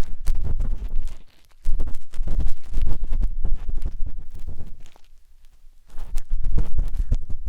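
Matchsticks scraping and tapping against the silicone ears of a 3Dio binaural microphone: a dense, loud stream of scratchy rubbing with heavy low thumps, pausing briefly a little over a second in and again for about a second around the five-second mark.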